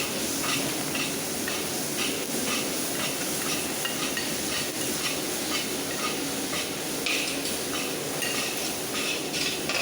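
Sliced onions, curry leaves and ginger garlic paste frying in coconut oil: a steady sizzle, with short scraping stirring strokes about twice a second.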